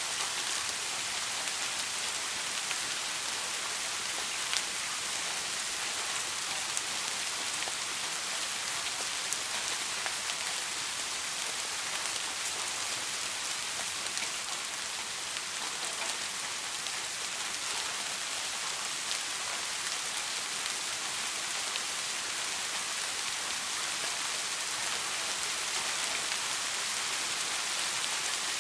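Steady soft rain, an even hiss with individual drops ticking now and then.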